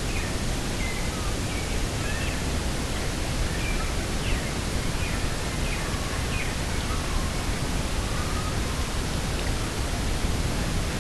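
Steady rushing wind over an open coastal field, with many small birds giving short high chirps and whistles throughout.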